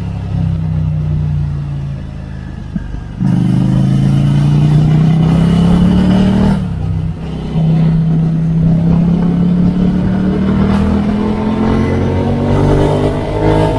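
Ducati Scrambler Icon 803's air-cooled L-twin through a Termignoni exhaust, heard from on the moving bike: running lightly for about three seconds, then opening up loudly with rising pitch. A short drop at a gear change about halfway, then the note climbs steadily again.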